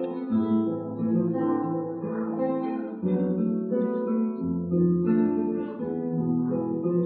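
Ensemble of classical guitars playing a slow lyrical melody over sustained bass notes.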